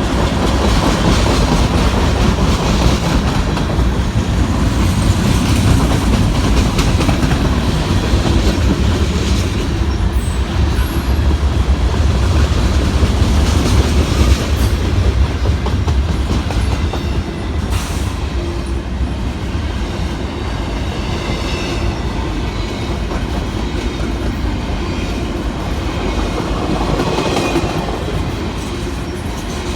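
Freight cars of a Norfolk Southern manifest train rolling past, steel wheels clacking over the rail joints over a steady low rumble.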